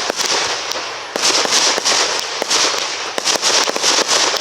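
Aerial fireworks show: a loud, dense stream of rapid overlapping pops and crackles from crackling shells, with a hiss underneath.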